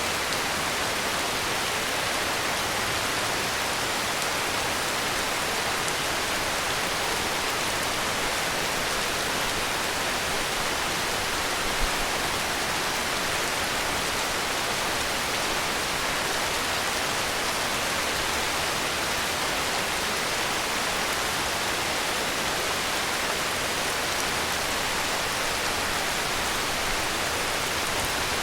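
Heavy rain falling steadily: a constant, even hiss with no rise or fall, and one brief low thump about twelve seconds in.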